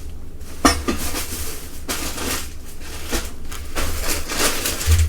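Rustling and clattering of packaging and small parts being handled, with several sharp knocks and clicks.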